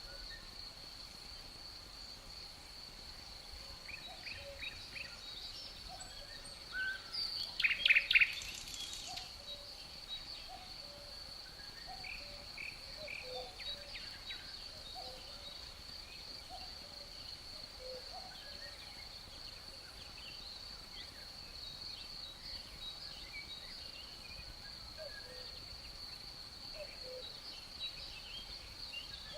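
Birds chirping and calling over a steady, high-pitched insect drone, with a short loud burst of calls about seven seconds in.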